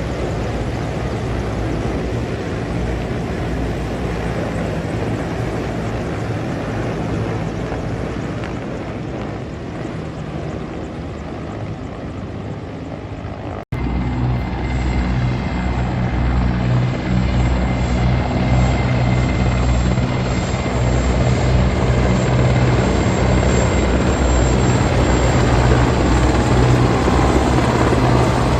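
Military helicopters flying overhead: a steady low rotor and engine drone. It breaks off for an instant about halfway through, then comes back louder and grows toward the end.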